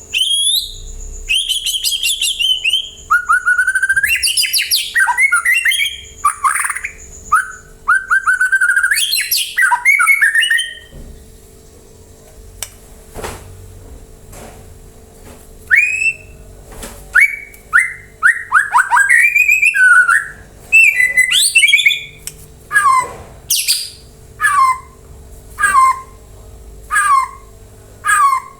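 White-rumped shama (murai batu) singing loud, varied whistled phrases that slide up and down. The song stops for a few seconds about eleven seconds in, then picks up again and ends in a run of repeated downward-sliding notes, about one a second.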